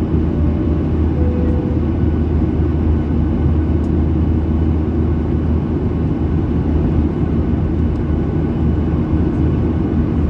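Steady drone inside the cabin of a Boeing 737-800 in flight: engine and airflow noise, low and unbroken.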